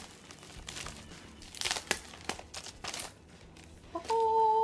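Mailed parcel packaging crinkling and tearing in irregular bursts as it is opened by hand. Near the end a short steady tone, like a held hum, sounds for about a second.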